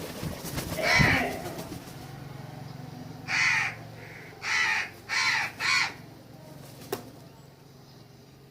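Crow cawing: one harsh caw about a second in, then four more between three and six seconds in, the last three in quick succession. A short click near the end.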